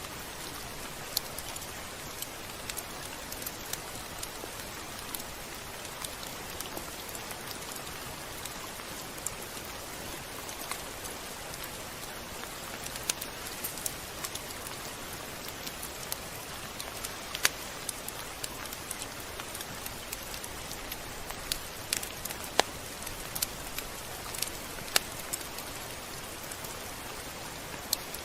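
Steady rain, an even hiss with scattered sharp ticks of single drops, more frequent in the second half.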